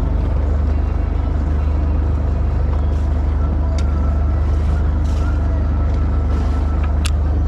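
A boat's engine running steadily with a deep, even drone. A few light clicks sound over it partway through and near the end.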